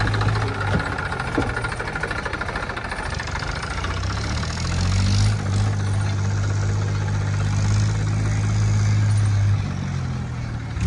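Diesel engine of heavy farm or earthmoving machinery running. It eases off in the first few seconds, then picks up again about five seconds in and holds steady.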